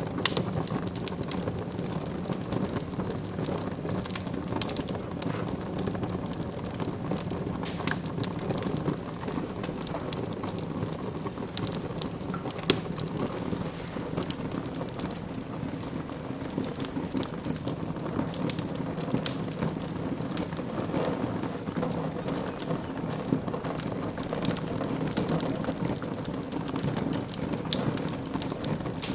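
Wood fire burning in a fireplace, crackling with frequent sharp, irregular pops over a steady rush of flame.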